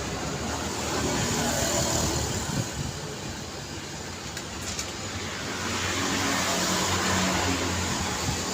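Road traffic: cars passing by, the engine and tyre noise swelling about a second in, easing off, and swelling again from about six seconds as another vehicle passes.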